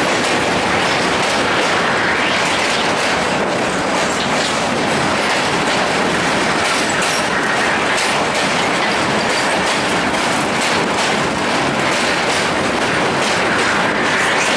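LHB passenger coach running on the rails, heard from on board: a steady rush of wheel and track noise with repeated clicks of the wheels over rail joints.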